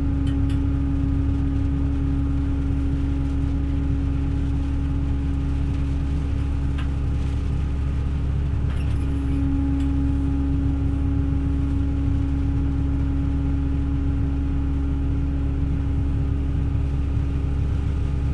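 Tractor engine running steadily: a constant low drone with a steady hum above it.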